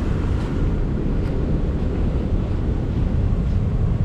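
Steady low rumble of a car ferry's engines and machinery running.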